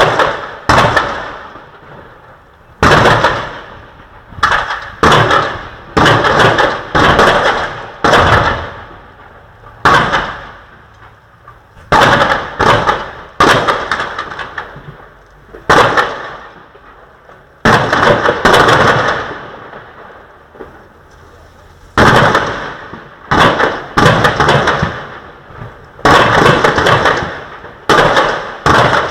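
Fireworks going off in a rapid series of loud bangs, a new one every second or two, each fading away over about a second.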